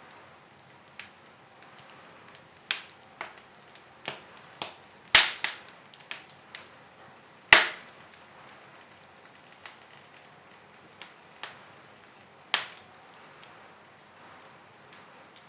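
Wood fire crackling in a fireplace: irregular sharp snaps and pops, with two much louder pops about five and seven and a half seconds in.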